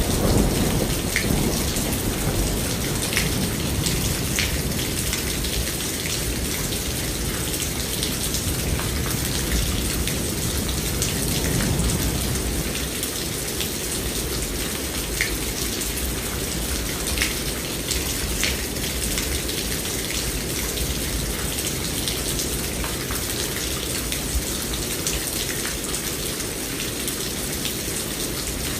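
Steady rain falling on a surface, with scattered distinct drops and drips. Low rolling thunder rumbles at the start and swells again about twelve seconds in, then dies away.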